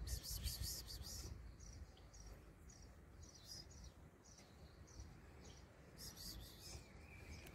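Faint bird chirping: short, high chirps repeating about twice a second. Brief rustling bursts come at the start and again about six seconds in.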